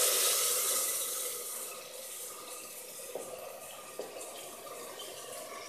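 Black chickpeas and their water tipped into hot fried masala and oil in an aluminium pressure cooker. A loud sizzle dies down over the first two seconds into a soft steady hiss, with two light knocks in the middle.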